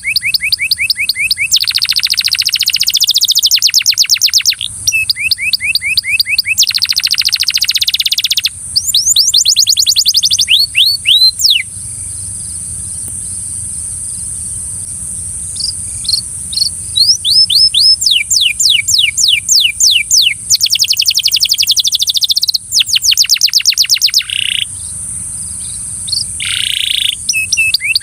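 Belgian canary singing in long phrases of fast trills and rapidly repeated falling sweeps, with a pause of a few seconds about midway.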